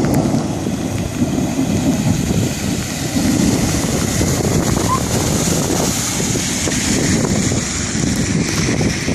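Wind buffeting the microphone in a strong, uneven low rumble, over a steady rushing hiss.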